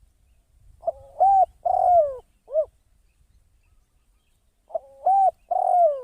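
Decoy spotted dove cooing: two calls of three to four arched notes, the first about a second in and the second near the end.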